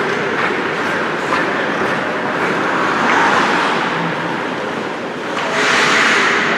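Ice hockey game noise: skate blades scraping and hissing on the ice, swelling twice, about three seconds in and again near the end, with a few faint clicks of sticks and puck.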